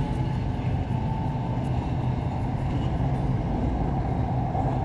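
SRT Red Line electric commuter train heard from inside the carriage while running: a steady low rumble with a faint steady whine.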